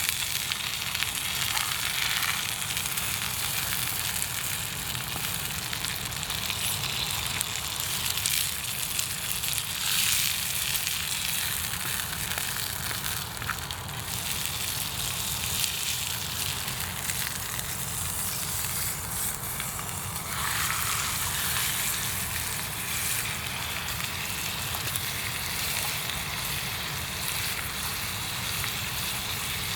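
Campfire burning, with a steady sizzling hiss and scattered small crackles.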